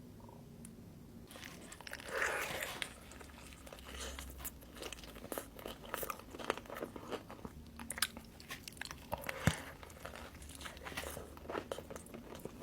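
Close-up eating sounds: crunchy bites into crispy fried chicken wings, then steady crunchy chewing. The first second is quiet, and the loudest bite comes about two seconds in.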